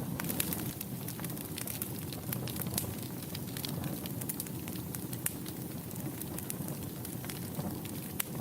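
Wood fire burning in a fireplace: a steady low rumble with many small, sharp crackles and pops at irregular intervals.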